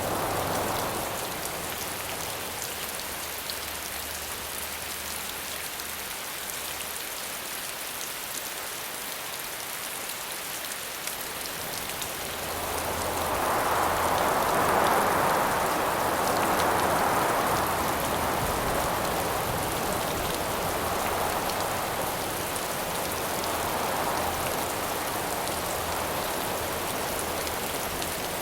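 Steady rain falling, a continuous patter of drops, with gusts of wind swelling and dying away from about halfway through, the strongest gust near the middle.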